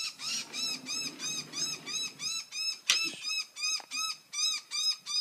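A bird calling over and over, a short rising-and-falling note repeated steadily about three times a second, with a sharp click about three seconds in.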